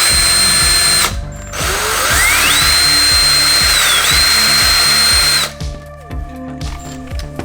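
Electric drill boring a small pilot hole, spinning up with a rising whine to a steady speed. It stops about a second in, then spins up again, dips briefly and runs on until it stops about three-quarters of the way through.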